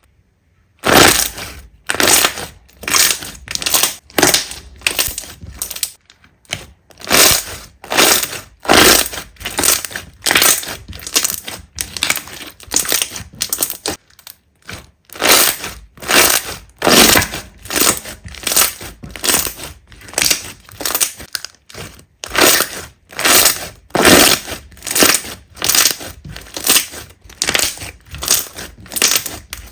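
Slime being squeezed and pressed by hand, crackling and crunching in quick repeated bursts, roughly two a second, with a short lull about halfway through.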